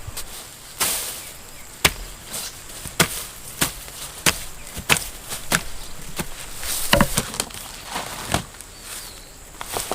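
A hand tool struck repeatedly in chopping blows, about a dozen sharp, unevenly spaced hits, roughly one or two a second.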